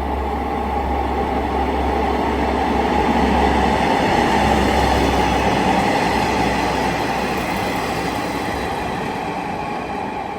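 Two-car KiHa 147 diesel railcar train passing through the station without stopping: engine rumble and running noise that grow to their loudest about four seconds in, then slowly fade.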